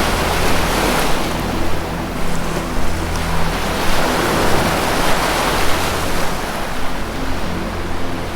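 Ocean surf washing in continuously, a dense rushing hiss of breaking waves, with a steady low drone of sustained tones underneath.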